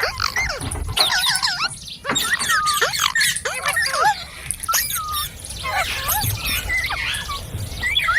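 Indian ringneck parakeet chattering and whistling: a rapid run of short rising and falling whistles and squawks with brief pauses.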